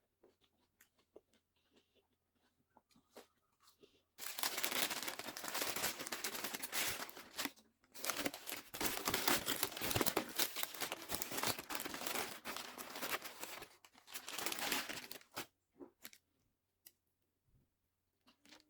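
Paper or plastic food packaging being crinkled and torn open close to the microphone in two long stretches, with scattered light clicks before and after.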